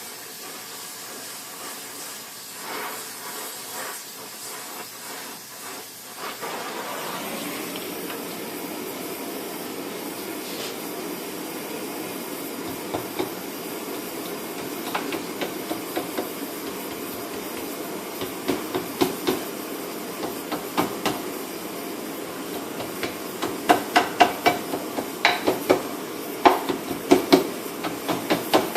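A torch hissing steadily, louder from about six seconds in, while a heated metal strip is hammered to bend it around a ball-peen hammer held in a vise: scattered light taps from about halfway, then a quick run of sharper blows near the end.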